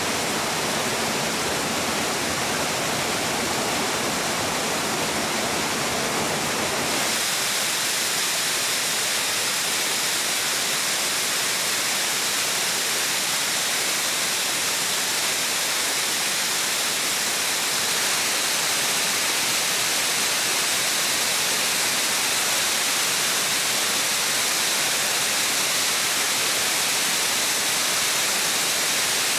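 Waterfall: a steady rush of falling water. About seven seconds in, the rush changes to a brighter, hissier sound with less low rumble.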